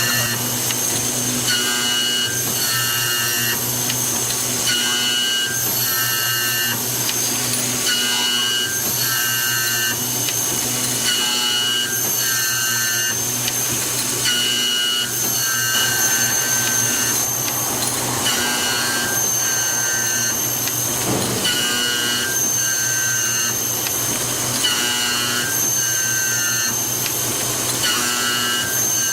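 Automatic key milling machine running through its cycle: a steady low hum with a high whine of several pitches that switches on and off in a regular pattern, short pulses in pairs about every three seconds.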